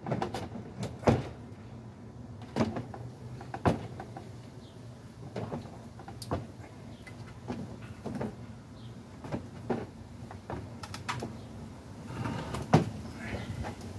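Irregular knocks and clunks, about a dozen, spaced a second or so apart, over a low steady hum: the handling and shifting of a heavy air compressor and its straps on a tractor's pallet forks.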